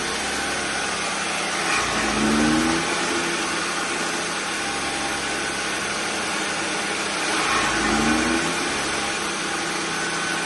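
Chaff cutter run by a petrol engine, a steady mechanical din. Twice, about two seconds in and again about seven and a half seconds in, it briefly grows louder with a rising pitch.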